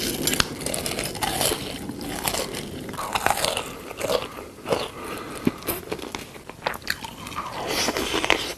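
Close-miked crunching and chewing of food, with irregular crisp bites and clicks.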